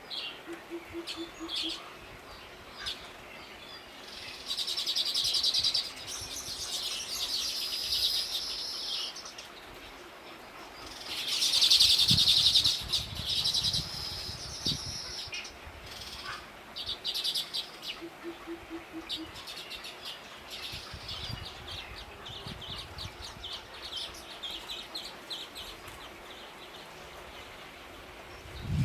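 Small wild bird calling: several bursts of rapid, buzzy chattering high in pitch, the loudest about twelve seconds in, with shorter chirps between them.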